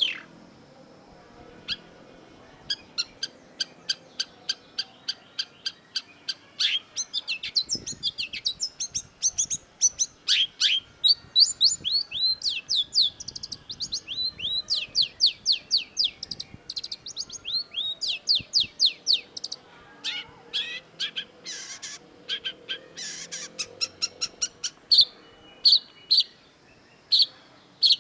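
Long-tailed shrike singing: long runs of rapid, sharp, downward-sweeping chirps, densest through the middle, changing near the end to a single note repeated about twice a second.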